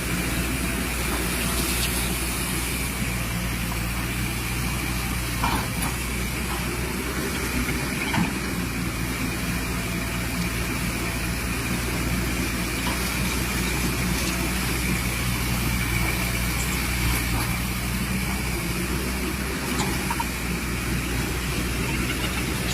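Excavator's diesel engine running steadily, with a few light knocks.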